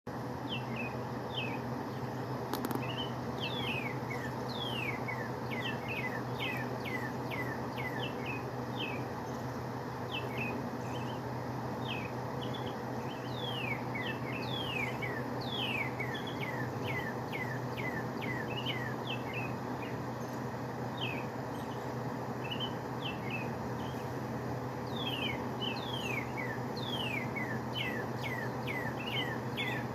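Morning birdsong: many short, quick chirps, each sliding downward in pitch, repeating in runs throughout. A steady low hum sits underneath.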